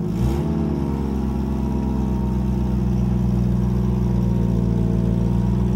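Toyota pickup truck's engine running steadily at idle, settling to a slightly lower speed just after the start. The engine is running on old fuel left in the line after the truck sat for almost two years.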